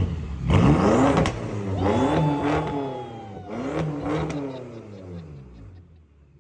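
2011 BMW X5 M's twin-turbo V8 being revved through a muffler-delete exhaust: a quick blip about half a second in, a longer rev rising and falling from about two seconds in, another blip near four seconds, then settling back down.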